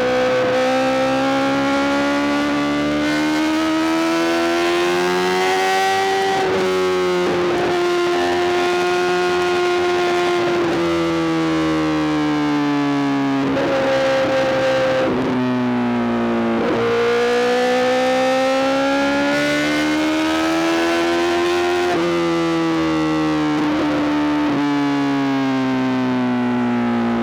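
Honda CBR1000RR-R SP's inline-four engine running through an Arrow GP full exhaust while riding. Its note climbs and falls in pitch as the bike speeds up and slows, with brief breaks at the gear changes.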